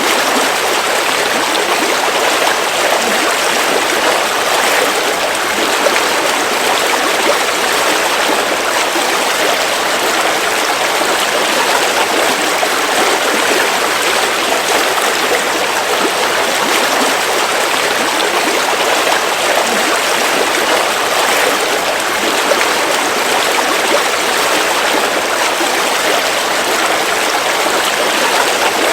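River water flowing: a steady, even rush of water that holds at a constant level.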